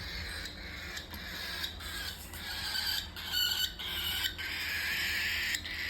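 Young cockatiel chick making raspy, hissing begging calls, which grow stronger from about three seconds in.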